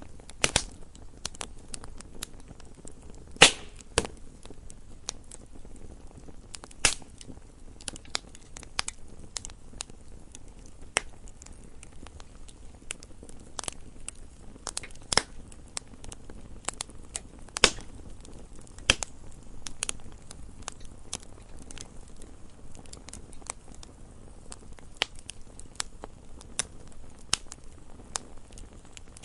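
Wood fire crackling: irregular sharp pops and snaps of burning wood over a low, steady hiss, with a few louder pops scattered through.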